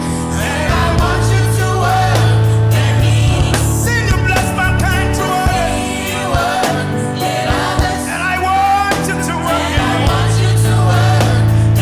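Gospel worship song: a sung melody over band accompaniment with a steady, sustained bass.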